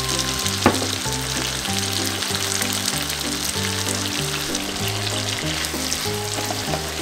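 Pork jowl pieces and garlic cloves sizzling in hot oil in a frying pan as dark soy sauce is stirred through, with one sharp click under a second in. Background music with a steady bass line plays under it.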